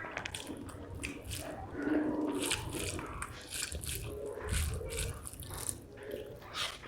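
Close-up eating sounds from a mouthful of rice and spicy fish curry: wet chewing and lip smacks with many small clicks.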